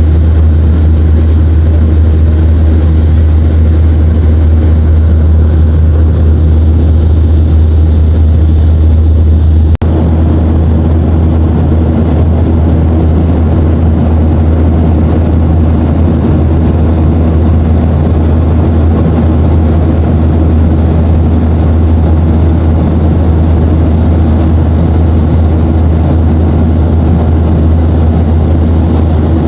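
Steady jet airliner cabin drone inside a Boeing 737-500, the engine and air noise heaviest in the low rumble. It breaks off for an instant about ten seconds in and goes straight on unchanged.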